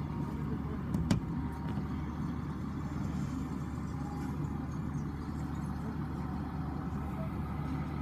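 Steady low rumble of vehicle engines idling, with a single click about a second in.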